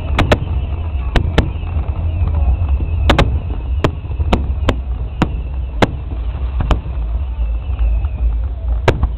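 Fireworks bursting overhead, a dozen or so sharp bangs at irregular intervals, some in quick pairs, over a steady low rumble.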